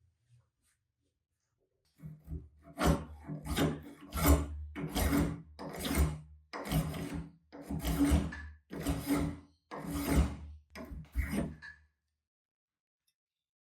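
Restored 1960s Tramontina hand plane being pushed across a wooden board, its blade shaving the wood in a dozen or so rasping strokes about one a second. The strokes begin about two seconds in and stop near the end.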